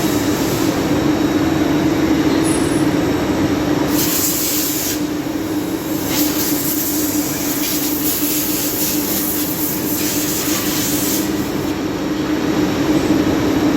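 CNC lathe running in a machine shop: a steady mechanical hum under a broad hiss, with a brighter hiss coming and going between about four and eleven seconds in.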